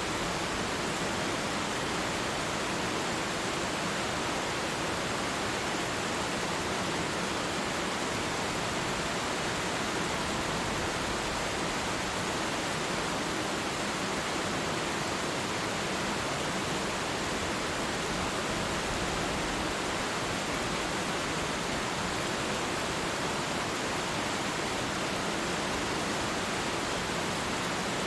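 Twin waterfall: a steady, even rush of falling water.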